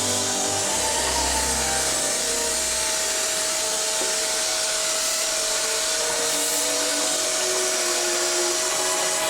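A steady, even rushing noise with a faint music track of held notes changing pitch every second or so.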